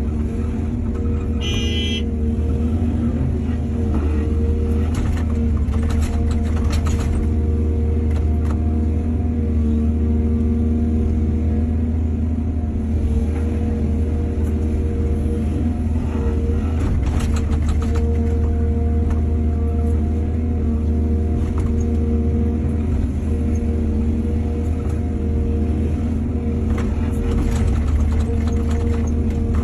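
Excavator's diesel engine running steadily with a deep hum, with a few short spells of clanking and scraping from the machine at work.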